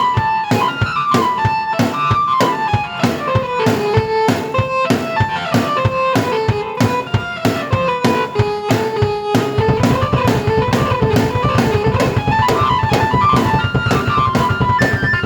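Drum kit and keyboard played together: a steady drumbeat under a stepping keyboard melody, with a fuller low part coming in about two-thirds of the way through.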